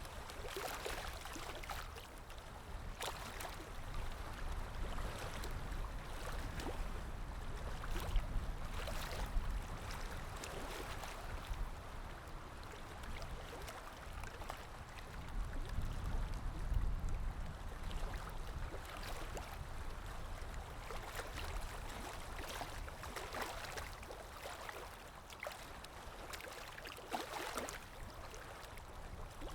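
River water rippling and lapping, with many small irregular splashy ticks over a steady low rumble.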